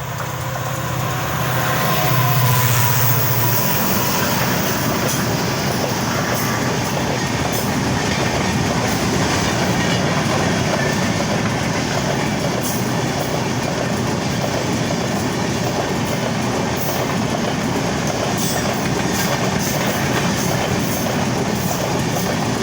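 Express passenger train running through a station: a steady rumble of wheels on rail, with the clatter of wheels over rail joints. A low hum, likely the locomotive, stops about three and a half seconds in, leaving the rumble of the coaches.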